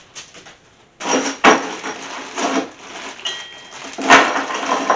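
Loose steel bolts and metal engine-stand parts clinking and clattering as they are handled, starting about a second in, with two sharp knocks, one about a second and a half in and one near four seconds.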